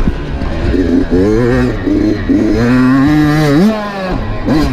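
Dirt bike engine revving under throttle. Its pitch climbs in short steps about a second in, holds steady, rises once more and then drops off shortly before the end, as it does when the rider shifts or rolls off the throttle.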